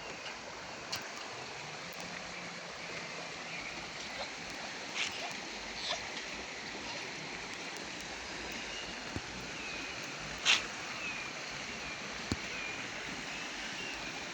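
Steady rain falling, an even hiss with scattered sharper drips and taps, the loudest one a little past halfway.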